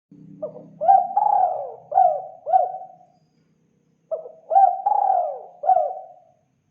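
Spotted dove (tekukur) cooing: two phrases of about five short coos each, a second apart.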